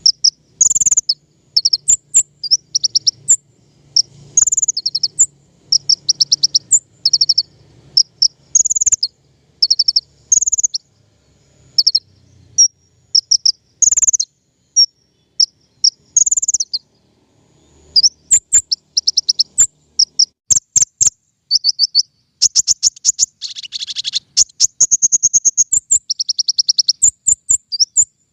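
A recording of the songbird called king konin, played as a lure: high-pitched chirps and fast trills in short, quickly repeated phrases. The phrases come thicker in the second half, with a buzzier stretch near the end.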